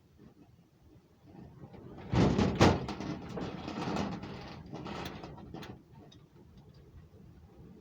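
A tiny M12B four-stroke gasoline model engine being cranked over on a first start attempt, a busy mechanical rattle that comes in suddenly a little after two seconds and fades near six; the engine does not start.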